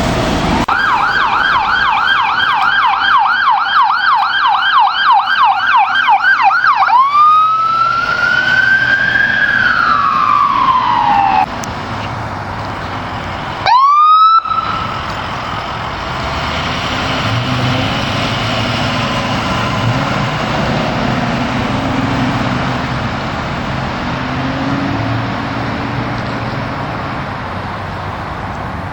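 Emergency-vehicle electronic siren on a fast yelp, about three sweeps a second, switching after about six seconds to a slow wail that rises and falls and then cuts off. A short, loud rising whoop follows a few seconds later. The rest is quieter traffic and engine noise with a faint siren.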